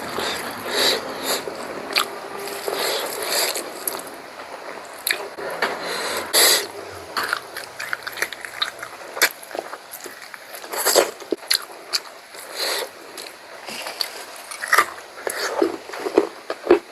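Close-up eating sounds of someone eating pork curry: chewing with irregular wet clicks, smacks and scrapes, bunching up a few times.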